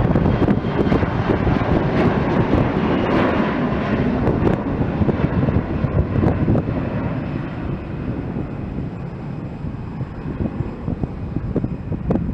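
Airliner engines passing: a loud, steady rush with a faint whine over it, fading away over the second half.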